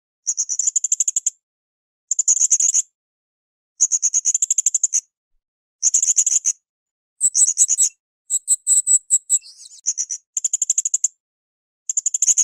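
Blue-crowned hanging parrot (srindit) calling: repeated bursts of rapid, high-pitched chirps, each about a second long, coming about every one and a half to two seconds.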